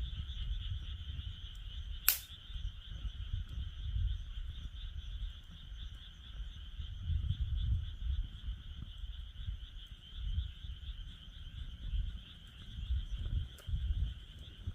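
A steady, pulsing chorus of frogs calling, with a single sharp pop from the crackling campfire about two seconds in and a couple of faint ticks near the end, over a low, uneven rumble.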